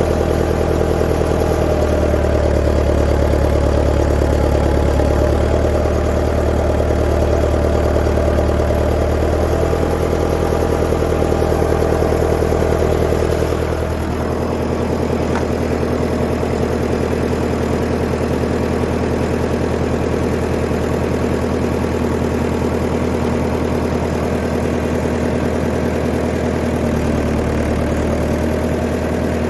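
1959 Fordson Power Major tractor engine running steadily. About halfway through, its note changes and the deepest rumble drops away as the engine speed shifts.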